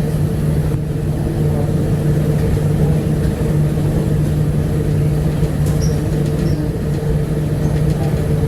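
Bombardier APM100 people-mover train running along its guideway on rubber tyres, heard from inside the car: a steady low hum with a fainter higher tone over an even rumble.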